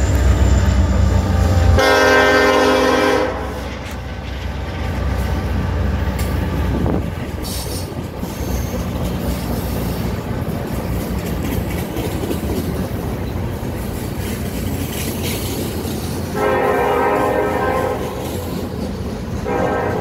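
Freight train pulled by four diesel locomotives passing: a heavy low rumble at first, then the steady rolling of the rail cars. The locomotive horn sounds a chord about two seconds in, and twice more near the end.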